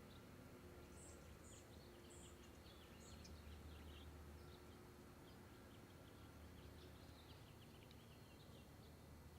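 Near silence: faint, scattered bird chirps over a low steady hum.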